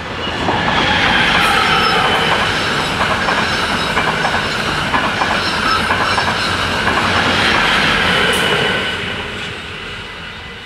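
NS ICRm intercity train passing over the level crossing at speed. Its rumble swells in about half a second in and dies away near the end. Over it sits a high whine from the wheels, with a run of rapid clicks as the wheels cross rail joints around the middle.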